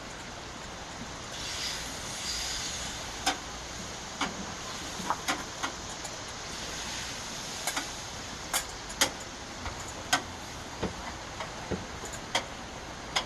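Kitchen utensils clicking and tapping against cookware while eggs are prepared for an omelet, with sharp irregular clicks over a steady hiss. A brief louder hiss comes about two seconds in.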